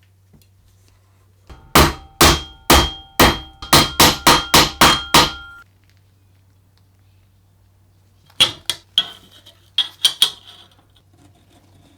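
Hammer blows with a ringing tone: a run of about ten strikes over some three and a half seconds, then a shorter run of about six strikes near the end.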